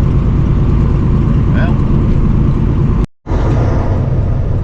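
Steady low drone of a semi-truck's engine and road noise inside the cab while driving, broken by a split-second dropout to silence about three seconds in.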